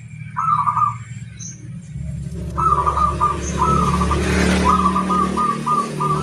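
Perkutut (zebra dove) cooing in its rolling song, several short phrases, one near the start and a run of them from about halfway in. A low rumble sits underneath from about two seconds in.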